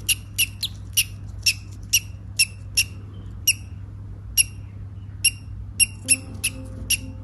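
Small parrot peeping: short, sharp, high chirps in a quick run of about two to three a second, spaced out more widely through the middle and quickening again near the end.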